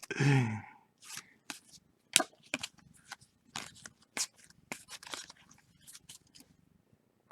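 Football trading cards being flipped through and slid one behind another by hand: a string of short, sharp card scrapes and ticks at irregular intervals.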